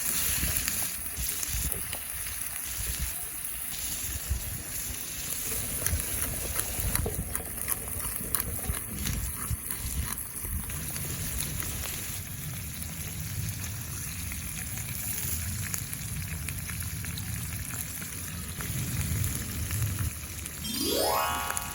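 Food sizzling and frying in a hot pan over a wood fire, a steady hiss with scattered crackles. A short rising tone comes in near the end.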